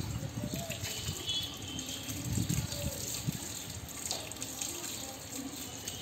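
Water splashing and running as sparrows bathe, with a few faint chirps.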